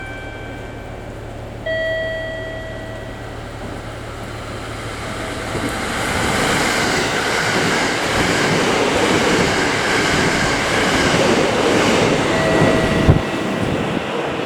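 A JR West Shirasagi limited express electric train passing through a station at speed: a rushing, rattling passage that builds over several seconds and peaks near the end with a sharp knock. A short, steady horn-like tone sounds about two seconds in and again near the end.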